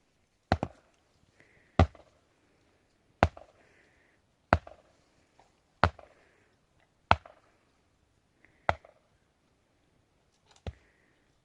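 Eight heavy chopping blows struck at a steady pace, about one every second and a half. Each is a sharp knock with a short ring-out.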